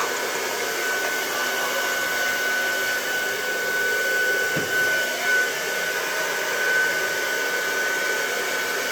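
Hair dryer running steadily during a blow-dry: an even rush of air with a steady high whine.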